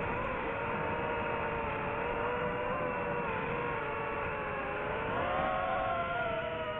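FPV quadcopter's electric motors and propellers whining, the pitch wavering with the throttle and rising about five seconds in, over a steady rushing noise.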